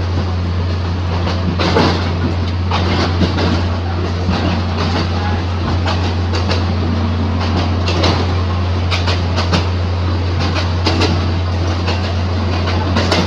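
Ex-JR 203 series electric multiple unit running, a steady low hum under the rolling noise of the wheels, with irregular clacks as the wheels cross rail joints.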